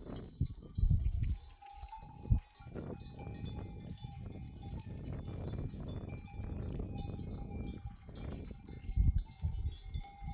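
Sheep bells clanking and ringing as a flock moves, with loud low thumps about a second in and again near the end.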